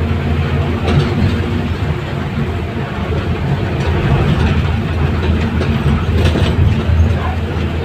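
Heavy engine running steadily with a low drone, with a few faint clicks or clanks about a second in and again near six seconds.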